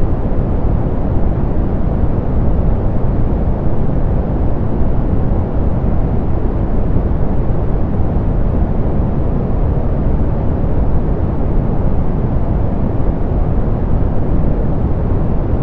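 Steady soft pink noise, a smooth even rush weighted toward the low end and darker than white noise, with no changes.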